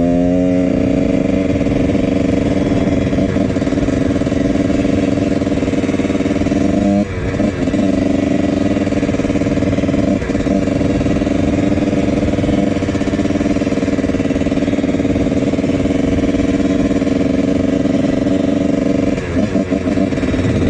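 1999 Husqvarna CR125's single-cylinder two-stroke engine running hard while riding, revs climbing in the first second and then holding high. The revs drop and pick back up about seven seconds in, and waver with throttle changes near the end.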